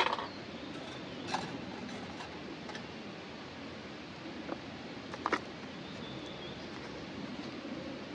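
Steady rushing of a river, with a few sharp clicks or knocks: a cluster at the start, then single ones about a second and a half in and about five seconds in.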